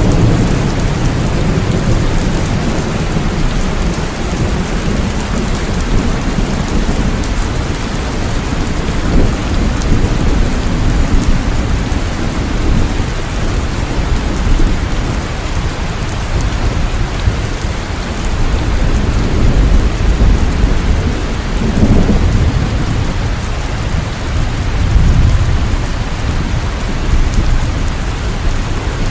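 Steady, heavy rain with low rumbles of thunder swelling under it a few times.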